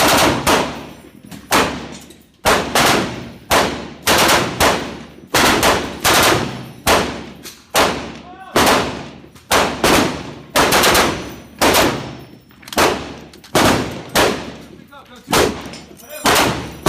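Machine guns firing short bursts of automatic fire, about one burst a second, each burst ringing out and dying away before the next.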